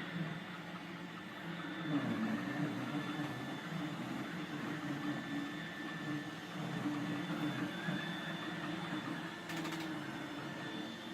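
Roomba robot vacuum running: a steady motor hum with a faint high whine and a wavering brush noise, and a brief click about nine and a half seconds in.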